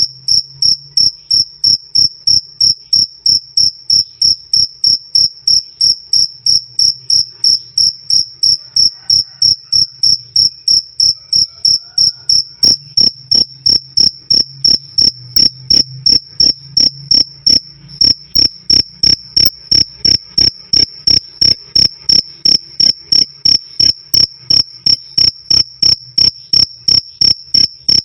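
Cricket chirping loudly and clearly, 'krik krik': one high chirp repeated evenly about twice a second.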